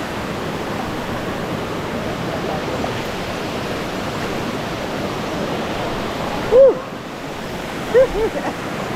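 River water rushing over rocks in a steady wash. About two-thirds of the way in, a person gives a short call, and two more brief calls come near the end.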